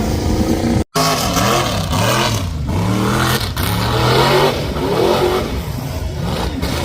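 A mud truck's engine revving, its pitch rising and falling several times, after a brief dropout about a second in.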